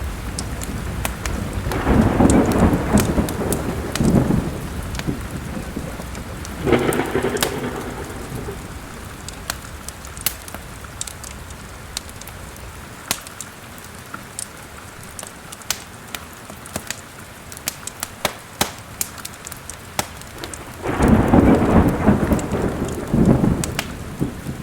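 Steady rain with thunder rumbling three times: about two seconds in, briefly near seven seconds, and again near the end. Sharp crackles and pops from a fireplace fire are scattered throughout.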